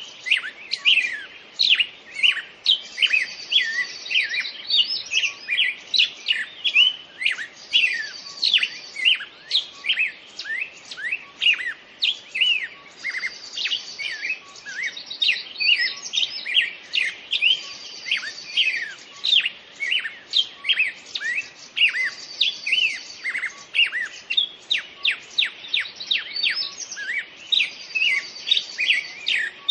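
Birds singing: a dense stream of quick chirps and whistled notes, with a higher trill returning about every five seconds.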